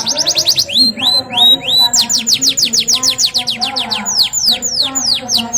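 Domestic canary singing a rolling song: fast trills of sharp descending whistled notes, about ten a second, broken about a second in by a few slower rising notes before the fast trill resumes.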